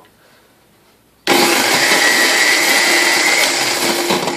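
Vintage KitchenAid A9 coffee mill switched on, its motor and burrs grinding coffee beans loudly with a steady high whine. It starts suddenly about a second in and stops abruptly near the end, still grinding coffee well.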